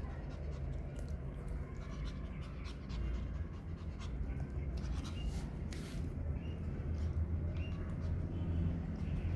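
Pomeranian puppy eating a snack: scattered small clicks of chewing and panting, over a steady low hum.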